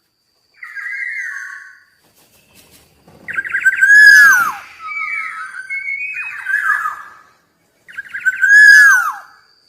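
Black-naped oriole singing: two loud fluting phrases, each opening with a quick stutter of notes and ending in a slurred whistle that falls in pitch. Quieter whistled notes come between them.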